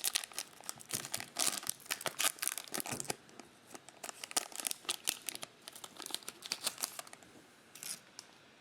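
A trading-card pack's foil wrapper being torn open and crinkled: a dense run of sharp crackles and rips for about seven seconds, then one more short crinkle near the end.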